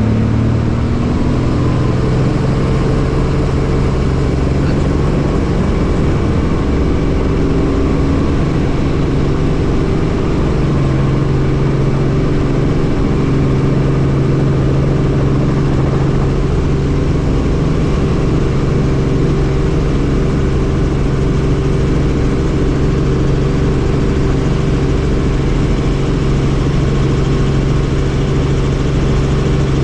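A helicopter's engine and rotor running steadily, a loud even hum with a low drone. Its pitch finishes a short rise in the first second, then holds level.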